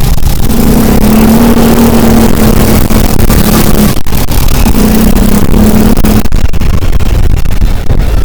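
Motor vehicle on the move: loud engine and road-and-wind rumble, with a steady droning hum that holds for a few seconds twice.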